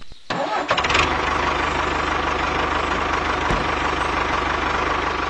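Engine running sound of a miniature toy tractor, steady with a fast, even pulse, coming in about a third of a second in.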